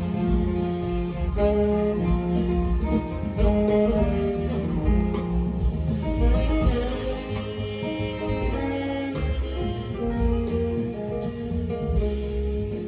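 A jazz group playing: a melody of held notes moving every half second or so over a steady low bass.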